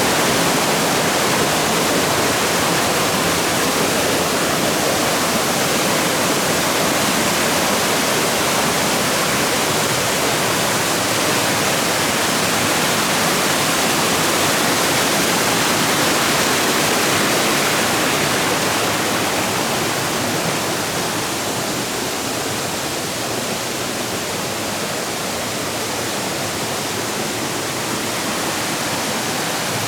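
Shallow water rushing and cascading over rocks among the trees of a flooded forest, a steady loud rush that eases a little about two-thirds of the way through.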